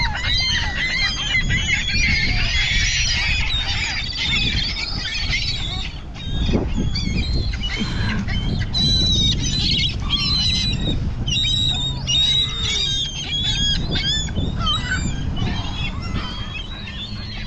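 A flock of seagulls calling and squawking over food, many birds at once, over a steady low background rumble.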